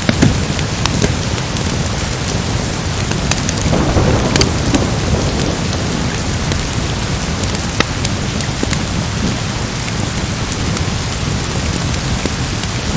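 Steady heavy rain with a continuous low rumble of thunder, swelling about four seconds in, and scattered sharp crackles of a wood fire.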